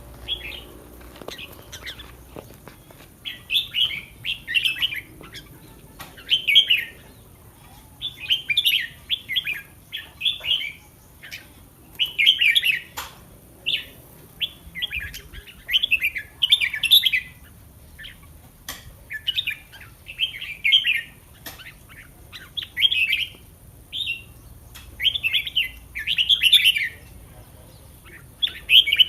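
Red-whiskered bulbul song: short, bright, warbling phrases repeated every second or two, with a few faint clicks between them.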